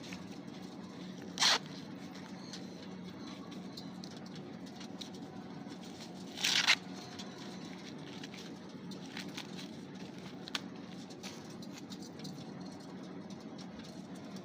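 Two short, harsh parrot squawks, about five seconds apart, the second one longer, over a steady low hum with faint scattered clicks.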